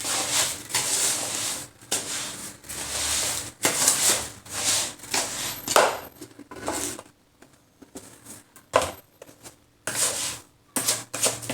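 Granulated sugar and lemon peels being stirred and mixed together: gritty, irregular rubbing and scraping strokes, with a couple of sharper knocks and a brief lull partway through.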